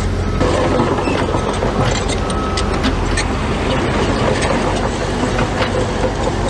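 Heavy diesel earthmoving machinery running steadily, with frequent short metallic clanks and rattles over the engine.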